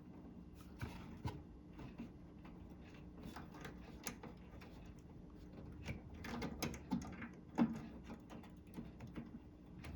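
Faint scattered clicks and small knocks of a wire's spade connector being worked onto a microwave door switch terminal, a cluster of louder clicks about six to eight seconds in, over a faint steady hum.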